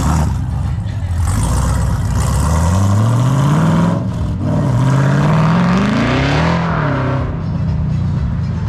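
A car engine accelerating hard, its pitch climbing, dropping sharply about four seconds in as at a gear change, then climbing again.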